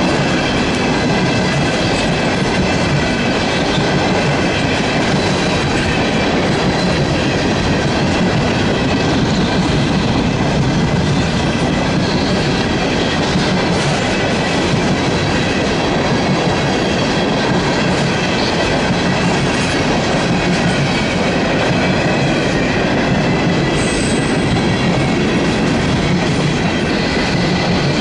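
Loaded CSX coal hopper cars rolling past close by: a steady loud rumble of steel wheels clicking over the rail joints, with steady high-pitched tones ringing over it.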